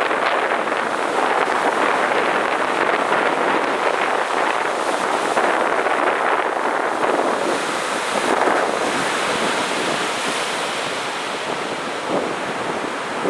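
Ocean surf washing onto a sandy beach, a steady rush of breaking waves that swells and eases, with wind buffeting the microphone.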